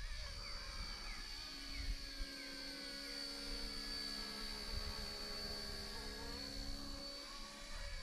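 Small brushless RC helicopter in flight: a steady high electric whine with the rotor's hum drifting slightly in pitch as it manoeuvres. Wind rumbles on the microphone underneath.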